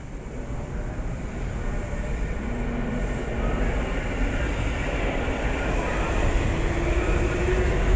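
Electric train accelerating: its motor whine rises slowly in pitch over the rumble of the running gear, growing steadily louder.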